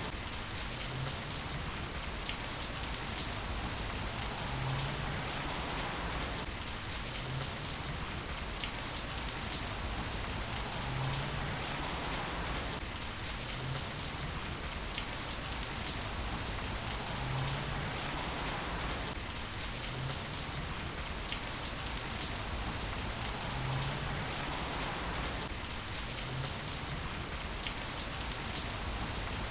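Heavy rain falling steadily, an even hiss with scattered sharper drop ticks. The same stretch of rain sound repeats about every six and a half seconds.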